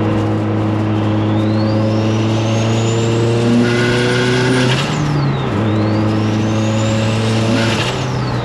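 Subaru STI's turbocharged engine accelerating hard through two gears. A high turbo whine climbs over the engine drone, then cuts off with a short hissing rush at each shift, a little before halfway and again near the end.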